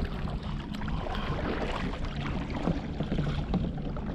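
Kayak and paddle on the water, with small splashes and knocks as a paddle reaches for a floating fishing lure. A steady low hum runs underneath and drops out for about a second in the middle.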